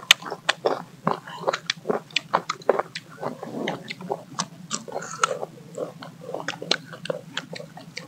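Several people biting and chewing raw mango slices close to the microphone: a steady run of sharp, wet crunches, several a second.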